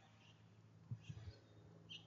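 Small birds at a feeder: a few faint, short high chirps, and a quick cluster of low knocks about a second in, like a bird landing or pecking on the feeder.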